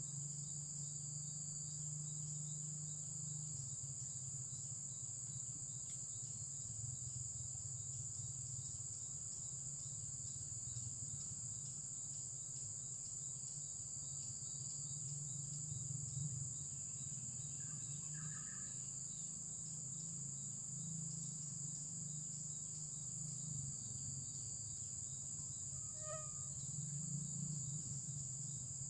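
Steady chorus of insects trilling continuously at a high pitch, over a low steady rumble. A few brief chirps come about two-thirds of the way through and again near the end.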